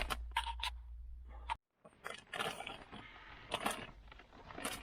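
Scraping, rustling and scattered clicks as a cardboard box and the plastic-wrapped dehumidifier bag inside are handled. The sound cuts out completely for a moment about one and a half seconds in, then the handling noise resumes.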